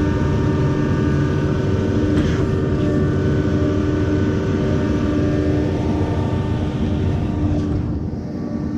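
Concrete pump trucks' diesel engines running steadily while pumping concrete: a continuous drone with several held tones, easing slightly near the end.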